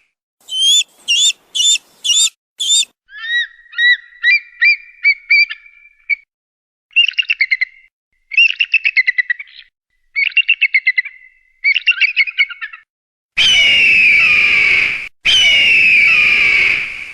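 A sequence of bird-of-prey calls. It opens with five short, high piping calls, then a run of rising chirps, then several bursts of rapid chattering. Near the end come two long, loud screams that fall in pitch.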